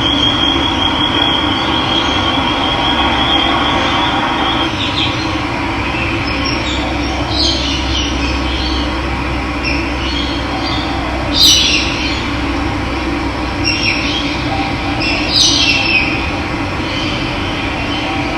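Steady rush of running water, with birds calling over it: a long high trill in the first few seconds, then a string of short falling chirps, the loudest about two-thirds of the way through.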